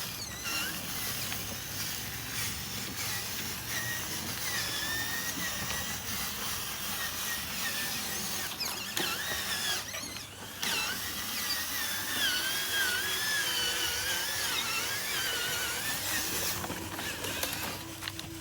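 Small electric motors and gearing of RC construction vehicles whining, the pitch wavering up and down as the throttle changes.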